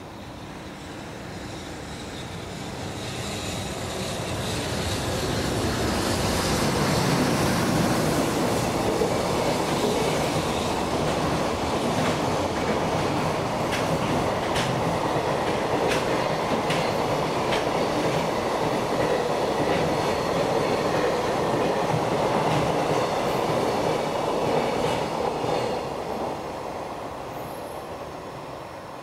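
A train on the Tohoku Main Line running past the station. The sound swells over about six seconds and holds with a string of sharp clicks from the wheels. It fades away near the end.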